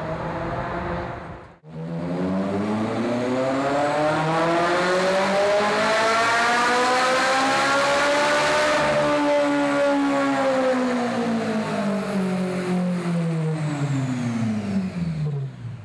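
Ferrari 458 Italia's 4.5-litre V8 through a Fabspeed Max Flow exhaust with Fabspeed headers and 200-cell HJS sport cats. After an abrupt break about a second and a half in, the engine note climbs smoothly for about seven seconds, then falls back for about seven more.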